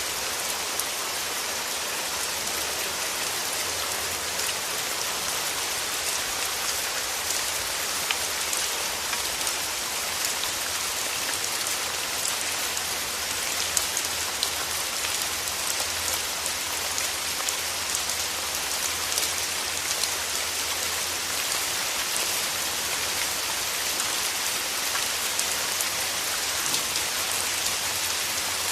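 Steady rain falling on forest trees: an even hiss of water with scattered individual drops ticking out here and there.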